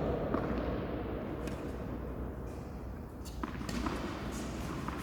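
Steady low background noise with a few faint clicks or taps scattered through it.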